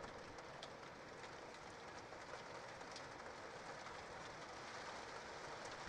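Steady rain falling on the nest ledge: an even hiss with faint scattered drop ticks.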